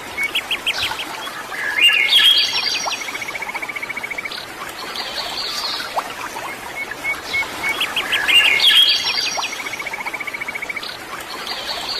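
Birds singing and chirping, including a fast, even trill, over a steady rush of running water. The same run of song comes round again about six seconds later.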